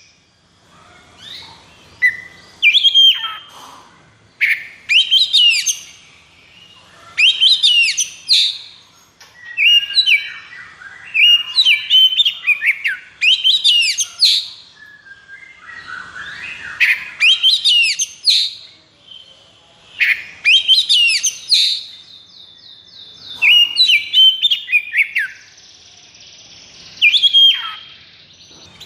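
Oriental magpie-robin (kacer) singing loud, rapid phrases of whistled glides, trills and harsh rattling notes, a new burst every second or two with barely a pause. This is the fierce, non-stop 'konslet' fighting song of a male kacer.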